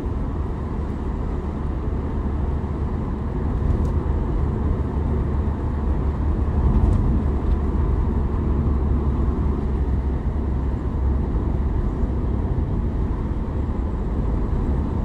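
Steady low rumbling noise, heaviest in the deep bass.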